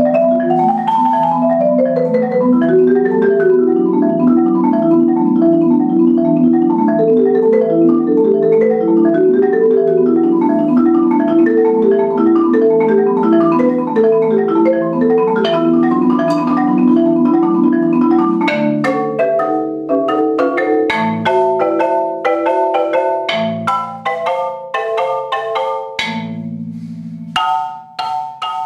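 Solo marimba. For about the first two-thirds it plays dense rolled chords in the low and middle register. It then thins to separate struck notes and short ringing figures, with a fast low roll near the end.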